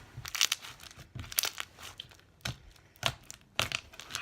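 Clear slime squished and stretched by hand, making irregular sticky crackles and pops, several a second.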